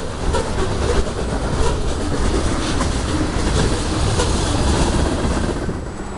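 Freight train of covered hopper and tank cars rolling past close by: a steady rumble with the wheels clicking rhythmically on the rails. It eases off near the end.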